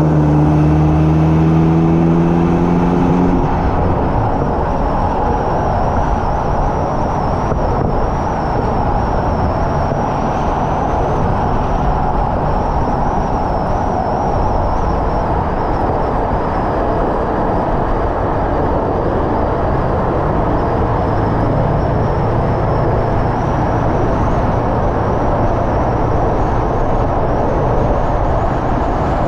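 Hyundai Elantra N's turbocharged four-cylinder engine pulling with rising pitch for about three seconds, then lifting off. After that, a steady rush of wind and tyre noise at speed, with the engine low underneath and a faint engine note coming back in the second half.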